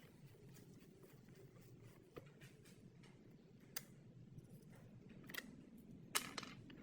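Quiet handling sounds: a few light clicks and taps, spaced a second or more apart, over a low steady hum. The loudest click comes near the end.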